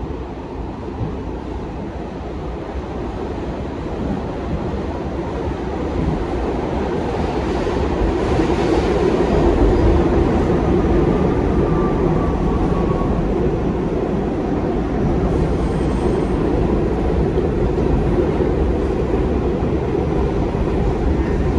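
New York City subway train running through the tunnel, heard from inside the car: a steady rumble and rattle of wheels on rail that grows louder over the first several seconds as the train picks up speed, then holds. About halfway through there is a faint thin squeal.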